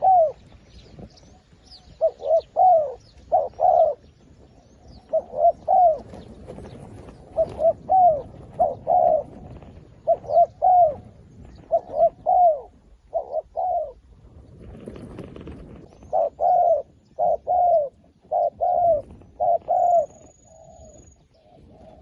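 Doves cooing in short phrases of two to four arched notes, repeated every second or two, with faint chirps of small birds above.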